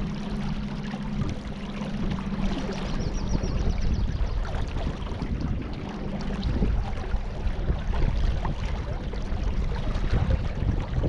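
Water splashing and lapping around a small boat on a river, with wind buffeting the microphone. A low steady hum is heard at the start and drops away about a second in.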